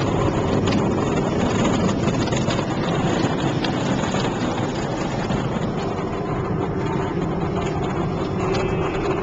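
Automatic car wash heard from inside the car: a steady rush of water spray and spinning brushes working over the car's body.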